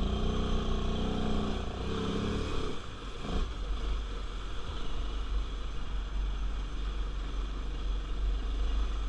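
Carbureted ATV engine revving over the first couple of seconds, then running at a steadier, lower pace with a low rumble.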